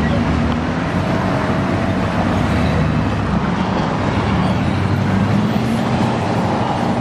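A car engine running steadily under a dense, even background noise.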